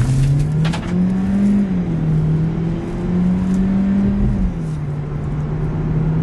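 Hyundai Genesis Coupe 2.0T's turbocharged inline-four engine accelerating, heard inside the cabin. Its drone rises in pitch, dips slightly about two seconds in and again about four and a half seconds in as the automatic gearbox shifts up, then holds steady.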